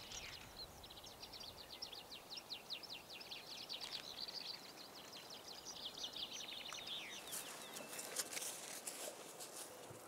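Faint high-pitched bird chirping in quick trills, followed near the end by a few sharp clicks.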